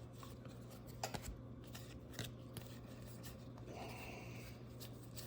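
Faint handling of trading cards: scattered light clicks and rustles of card stock being shuffled and turned over.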